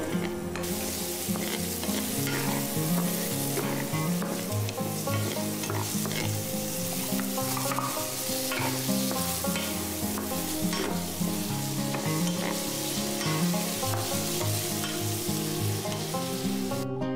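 Diced onion sizzling in hot oil in a non-stick frying pan, stirred and scraped with a wooden spatula. Diced red pepper is tipped in about halfway, and the frying and stirring go on.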